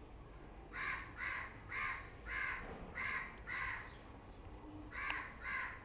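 A bird giving a series of harsh, caw-like calls: six in a quick even run, then two more after a short pause.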